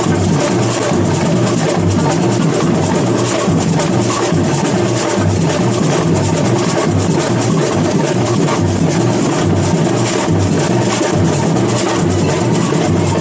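Samba percussion band playing live: deep drums beating a steady, even pulse under dense, fast strokes of higher drums and percussion, loud and unbroken.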